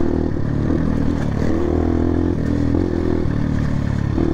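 Dirt bike engine running under throttle with its exhaust dB killer removed, the engine note stepping up and down several times as the throttle opens and closes.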